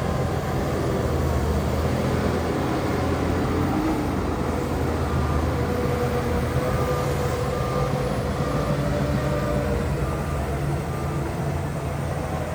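Heavy diesel engines of earthmoving machines running steadily, with a reversing alarm beeping at an even pace from about five seconds in until near the end.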